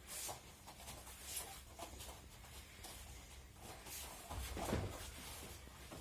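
Faint scattered rustling with a dull thud about four and a half seconds in, the sort of sound made by people moving and falling on an aikido training mat.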